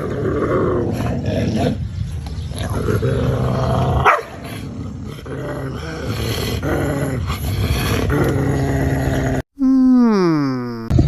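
A dog growling continuously, with one sharp crack about four seconds in. Near the end it cuts off and a falling tone sweeps steeply down.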